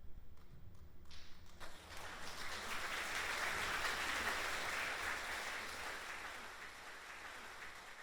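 Audience applauding: a few scattered claps, then the applause builds to full strength and slowly fades away.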